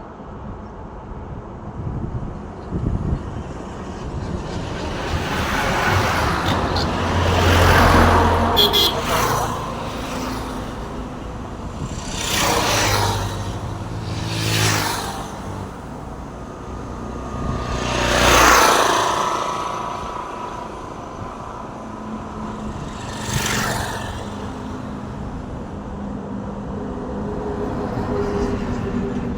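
Road traffic with trucks: about five vehicles pass one after another, each engine rising and fading as it goes by. The loudest passes come about eight and eighteen seconds in.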